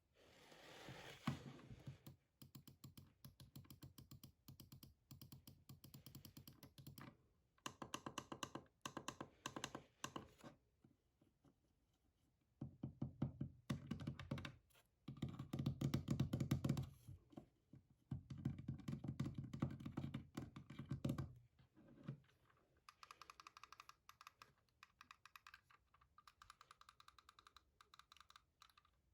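Rapid typing on a gaming keyboard, in bursts of several seconds broken by short pauses.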